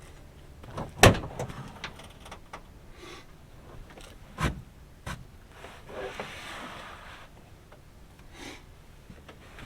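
Knocks and clunks of gear being handled: a sharp one about a second in, another about four and a half seconds in, a few lighter clicks, and a short scraping rush around six seconds.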